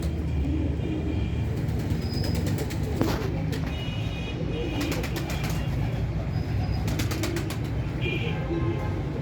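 Pigeons cooing, with short high chirps from small birds and several sharp clicks, over a steady low hum.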